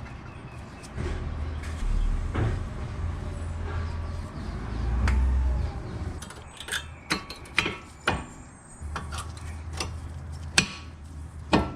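Metal tools and parts clinking and knocking during work on a car, a string of sharp clicks from about halfway in over a low rumble.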